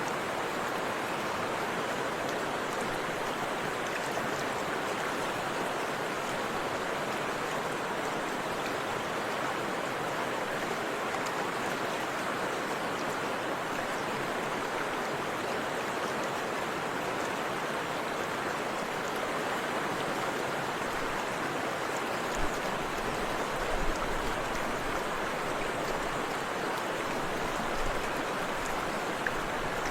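Forest river with a small waterfall rushing in a steady, even wash of water, with a few faint low splashes in the second half.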